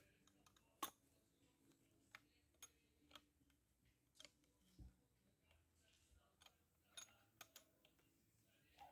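Near silence with faint, irregular clicks and taps, about a dozen scattered through it.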